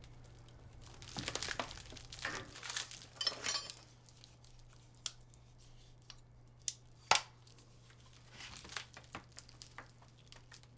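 Rustling and crinkling handling noises with a few sharp clicks in between, over a steady low hum.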